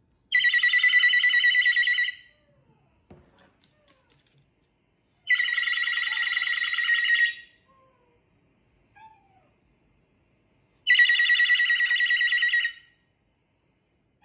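Mobile phone ringtone or alarm sounding three times, each a high trilling tone of about two seconds, repeating about every five seconds.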